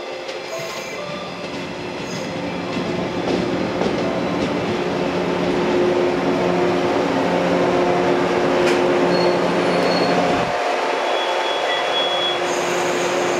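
Electric multiple-unit train pulling out of the station, its traction motors humming steadily and growing louder as the cars go past, with a few short high squeals from the wheels on the rails.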